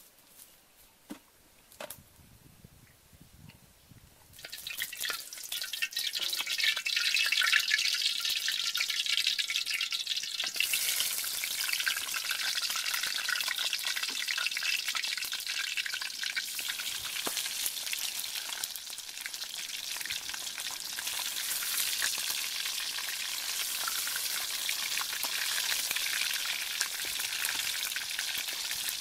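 Fish frying in hot oil in a wok. After a few light knocks, a loud sizzle starts suddenly about four seconds in and then keeps going steadily.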